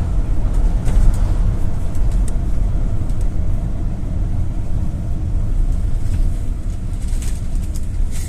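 GAZelle City minibus on the move: a steady low rumble of engine and road noise, with a few light rattles.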